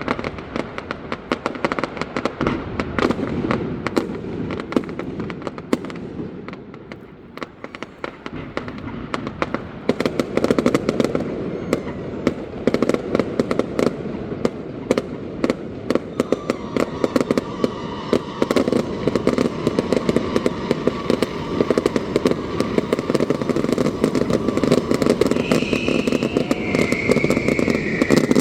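Aerial fireworks display: a dense, continuous barrage of bangs and crackles. It thins briefly about seven seconds in, then grows denser and louder.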